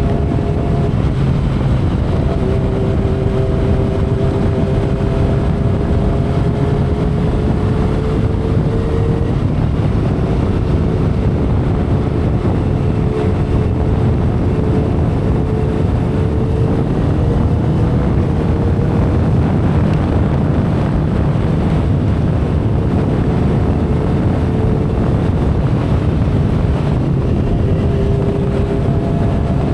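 2012 Kawasaki Ninja ZX-10R inline-four engine running at a steady cruise, under heavy wind rush on the microphone and road noise. A faint engine tone climbs slowly in pitch over the first several seconds, then holds.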